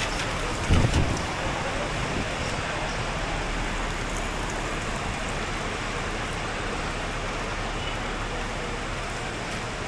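Steady hiss of rain mixed with passing road traffic, with a brief low thump a little under a second in.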